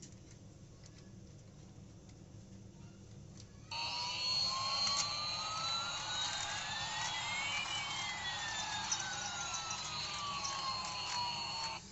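An electronic siren-like sound effect starts abruptly about four seconds in, over a hiss. Two tones glide against each other, one rising and one falling, and cross midway. It cuts off suddenly near the end, after a low hum at the start.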